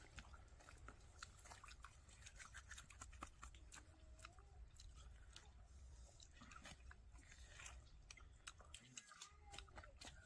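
Near silence with faint, irregular crackling clicks over a low steady hum.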